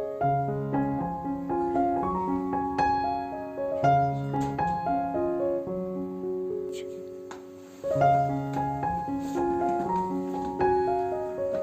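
Background piano music: a slow, gentle melody of held notes that thins out briefly about two-thirds of the way through, then picks up again.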